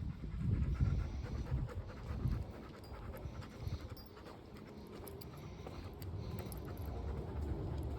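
Dog panting on a walk, with a low rumble underneath.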